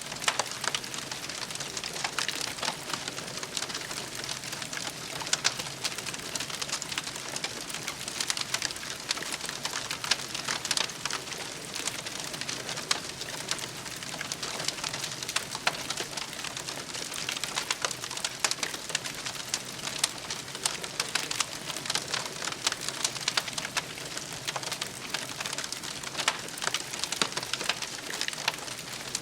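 Campfire crackling: a steady, dense stream of small crackles and pops.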